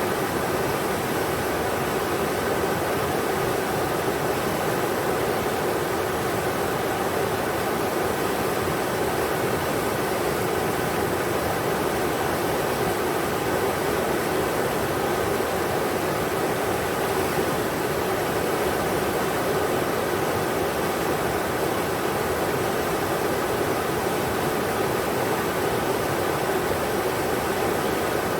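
Englishman River's rushing water: a steady, even rush with no breaks or changes.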